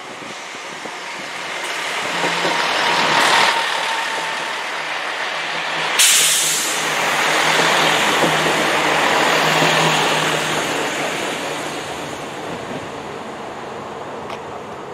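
Diesel multiple-unit passenger trains passing close through a station: diesel engines running and wheels on the rails, swelling as the trains draw near and go by. A sudden loud burst of hissing noise comes about six seconds in.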